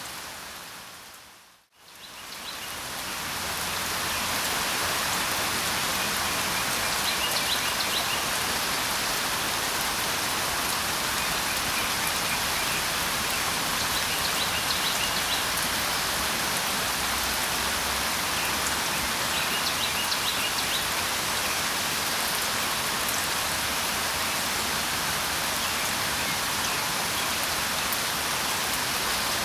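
Steady rain falling, with faint high bird chirps now and then. The rain fades down to near silence about two seconds in, then fades back up.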